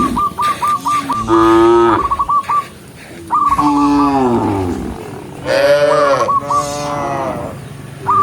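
Cows mooing: several long, deep moos, one after another, each falling in pitch at the end. Between them, short series of rapid high chirps repeat.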